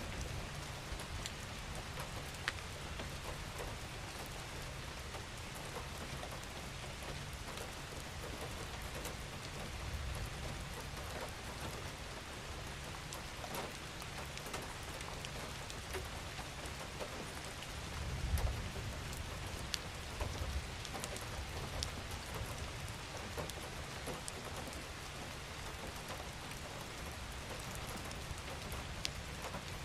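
Steady gentle rain falling on surfaces, an even patter with scattered individual drops ticking, over a low rumble that swells briefly about eighteen seconds in.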